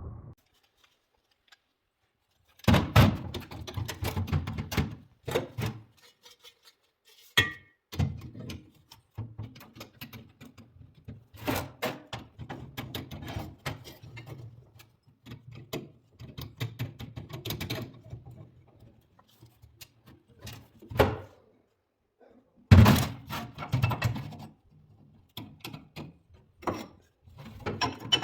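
Irregular knocks, thunks and clatter of hard objects being handled, in clusters with short silent gaps and several sharper hits.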